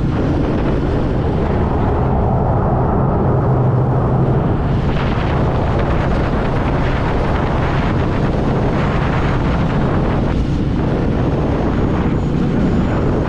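Royal Enfield Meteor 350's single-cylinder engine running steadily while riding, with wind rushing over the microphone.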